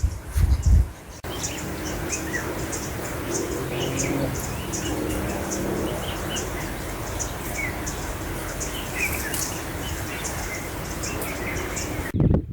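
Wild birds chirping and calling in a dense outdoor chorus with rapid high ticking like insects, over a steady background. Low thuds, as of wind or handling on the microphone, come in the first second and again near the end.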